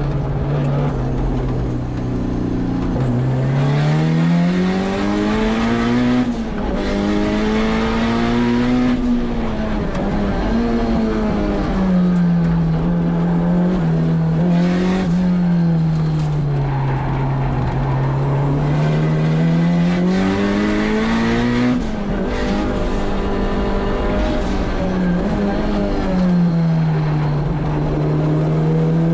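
Turbocharged K24 four-cylinder in a Honda S2000 driven hard on track, its revs climbing and dropping again and again through gear changes and braking.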